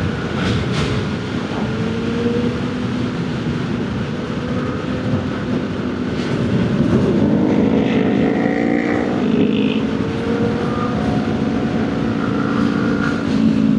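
Vehicle and road noise while riding: a loud, steady rush of wind and road noise, with engine tones that hold and slowly shift in pitch, strongest in the middle stretch.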